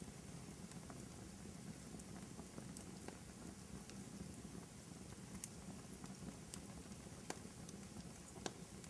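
Wood fire burning in a fireplace: a soft steady hiss and rumble with scattered sharp pops and crackles, two of them louder late on.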